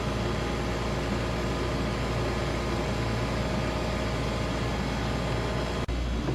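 Commercial ice machine running, a steady hum with an even hiss, briefly cutting out near the end.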